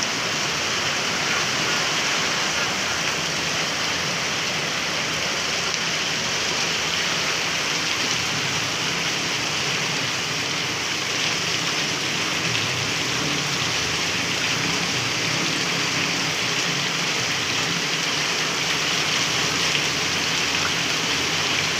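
A steady, even rush of water that holds constant throughout, consistent with heavy rain and flowing floodwater.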